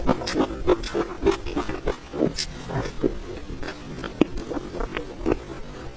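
Close-miked chewing and lip smacking of soft creamy cake: irregular smacks and clicks, a few a second.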